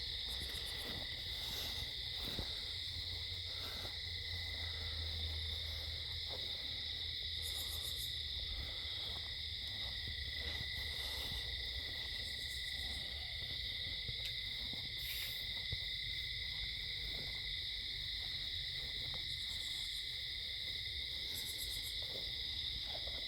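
Night chorus of insects singing steadily and high-pitched, with short higher buzzes every few seconds. Underneath runs a steady low hum, which the listeners take for underground machines.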